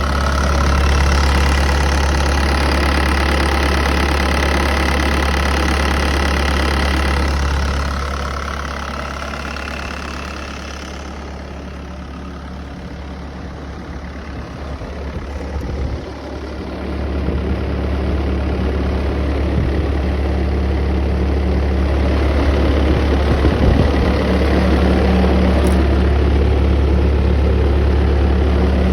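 Diesel engine of a Bobcat T190 compact track loader running steadily with a deep hum; it eases down about eight seconds in and builds back up from about sixteen seconds in.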